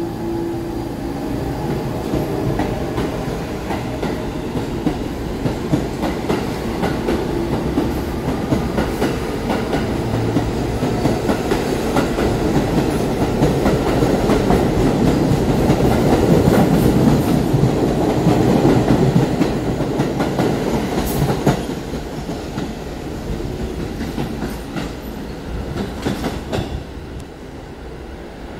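New York City subway train on the Sea Beach Line with steady clickety-clack of wheels over rail joints. The sound grows louder to a peak mid-way, with a sharp crack a little after that, then fades as the train moves off.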